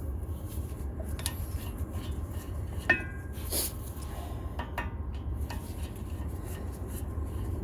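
Scattered light metallic clinks and taps of hand tools against a Honda Civic's front brake rotor and its retaining screws, the sharpest clink about three seconds in, over a steady low hum.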